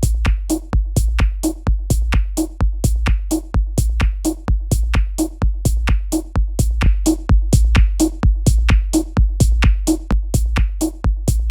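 Electronic techno loop made with Ableton Live 10's built-in devices. A steady deep bass runs under fast, crisp hi-hat-like clicks, with a short pitched note repeating about twice a second.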